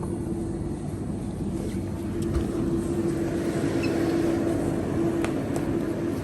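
Steady low hum of supermarket refrigeration with one held tone, and a few faint clicks.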